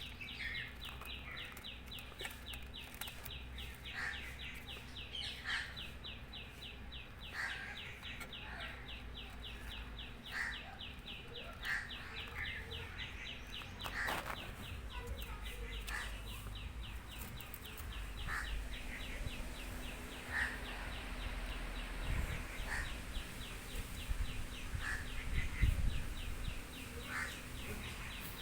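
Birds calling: a fast, steady run of short chirps, about five a second, with separate short calls every second or two.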